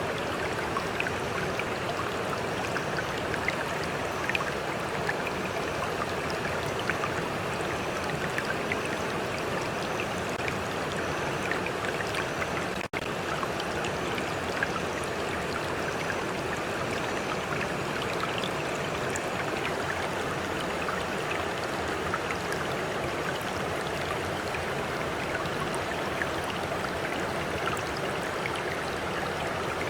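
A stream flowing steadily, with gentle water lapping and small splashes over the rush. The sound cuts out for an instant a little before the middle.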